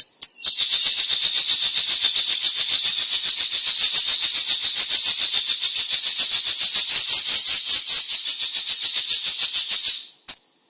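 Cucak cungkok songbird giving a long, loud, dry rattling trill of fast high-pitched pulses, held for about nine seconds before breaking off briefly near the end.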